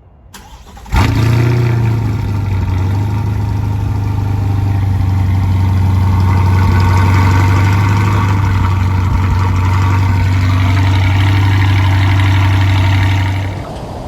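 C8 Corvette's LT2 V8 firing up abruptly about a second in, flaring briefly, then settling into a steady, loud idle through its exhaust. The sound drops off sharply near the end.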